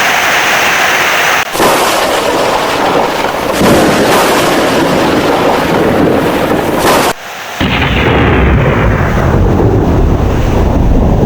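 Loud thunderstorm: heavy rain and thunder, joined by several abrupt cuts. About seven and a half seconds in, a deep rolling thunder rumble takes over.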